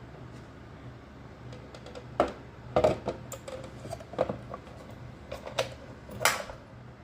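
A handful of irregular sharp clicks and knocks of small hard objects being handled, the loudest about two seconds in and near the end, over a faint steady hum.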